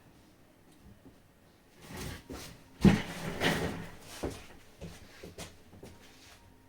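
Small parts and tools being handled on a work surface: a rustle, one sharp knock about three seconds in, a second of scraping, then scattered light clicks.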